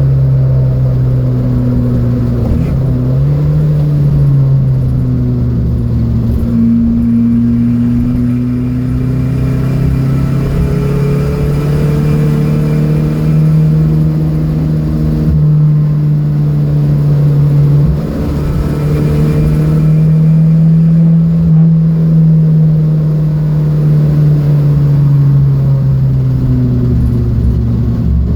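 Datsun B210's inline-four engine running hard at speed, its pitch rising and falling with the revs. It breaks briefly at gear changes about three seconds in and again around the middle.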